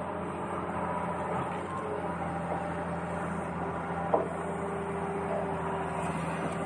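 Small electric motor of a toy vehicle whirring steadily, with one sharp click about four seconds in.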